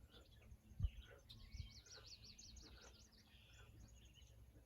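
Faint birdsong: a quick trill of repeated high chirps from about a second and a half to three seconds in, otherwise near silence. A single low thump sounds just under a second in.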